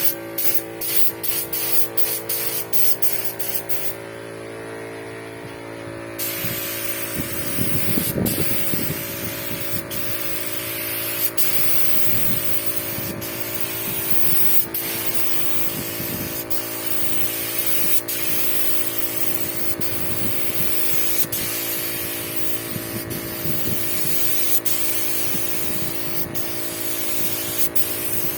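Paint spray gun hissing as a fine finish coat goes onto a boat: short on-off bursts in the first few seconds, then continuous spraying from about six seconds in. A steady hum runs underneath.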